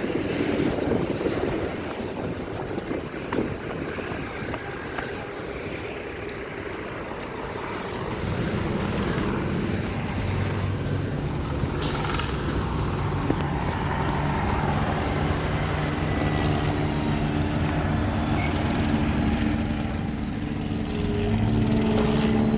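Street traffic with the engine of a large vehicle, such as a truck, running close by. Its low hum comes in about eight seconds in and grows louder, and there is a sharp knock near the end.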